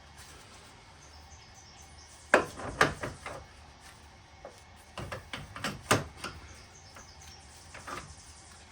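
Scrap furnace burner parts knocking and clinking as they are handled and set down: a few sharp knocks in two clusters, with a last one near the end.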